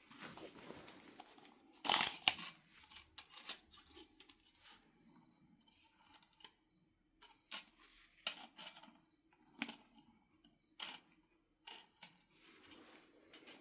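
Flintknapping sounds: a series of sharp, irregular clicks and knocks of stone against stone or knapping tools, about a dozen spread unevenly, with the loudest about two seconds in.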